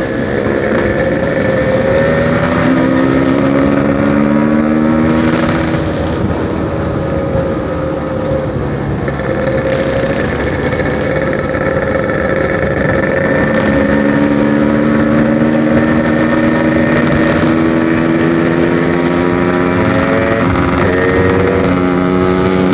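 Yamaha RX-King 135cc single-cylinder two-stroke engine running through a 'packing power' aftermarket exhaust while the bike is ridden. Its pitch climbs as it accelerates, briefly near the start and again over most of the second half, over a steady rushing noise.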